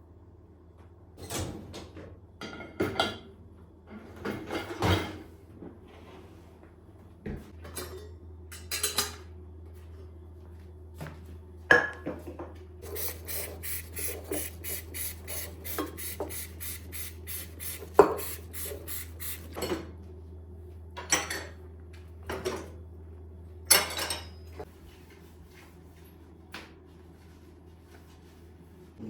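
Household objects being handled, likely kitchenware: scattered clinks and knocks, with a run of quick even strokes, about four a second, midway through. A low steady hum runs under the middle part.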